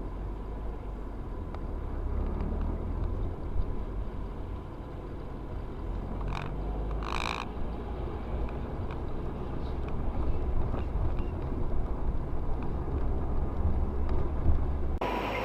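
Steady low rumble of a car driving, with a brief high-pitched tone about seven seconds in.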